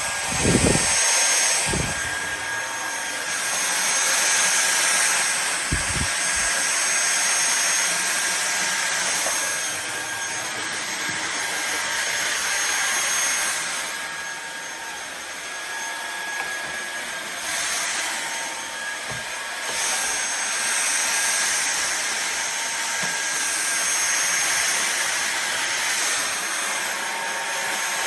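Cordless stick vacuum running with a steady motor whine over a rush of air, its level swelling and dipping every few seconds as it is pushed and pulled. A few low knocks come near the start and again about six seconds in.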